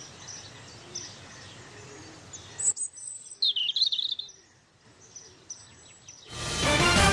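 Birds chirping and whistling over a steady outdoor hiss, with a louder burst of chirps about halfway through. Loud music comes in near the end.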